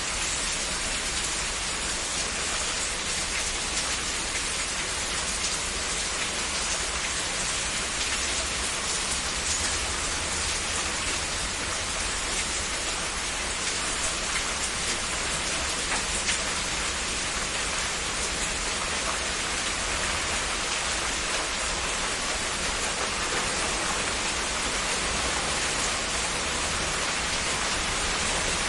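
Steady heavy rain, an even hiss of many drops with a faint low rumble beneath.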